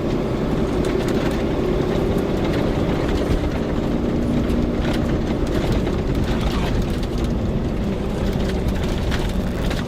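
Vehicle driving at a steady pace: a steady engine drone with road and running noise.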